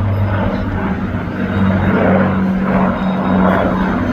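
Piston engines of a World War II propeller bomber flying past, a steady low engine tone over propeller noise.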